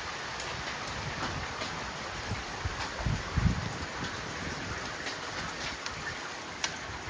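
Hail and rain pouring down in a steady hiss, with scattered sharp ticks of hailstones striking. There is a brief low thump about halfway through.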